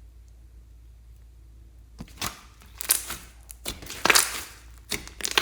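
Slime being squeezed and pressed by hand, giving a quick irregular run of sharp crackling, popping squishes that starts about two seconds in.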